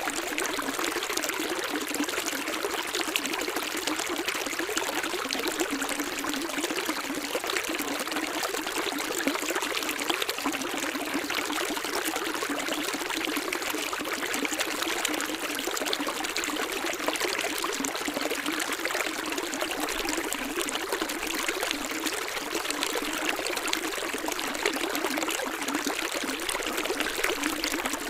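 Running water splashing and trickling steadily, light and hiss-like with no deep rumble.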